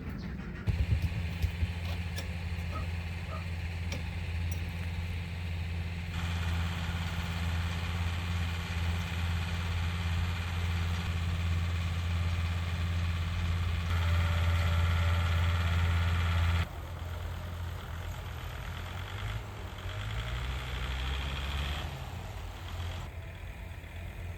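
A motor vehicle's engine running with a steady low drone, a few sharp knocks just after it comes in; about two-thirds through the drone drops away suddenly to a quieter engine sound.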